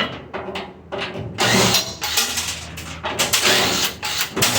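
Harsh mechanical rattling and clattering, thick with rapid clicks, starting about a second and a half in.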